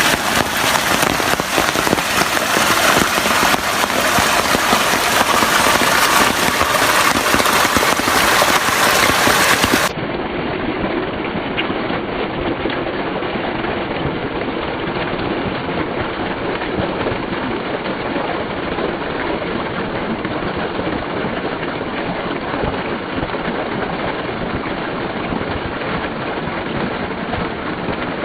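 Heavy rain pouring down steadily. About ten seconds in it cuts to a duller, slightly quieter recording of the same downpour.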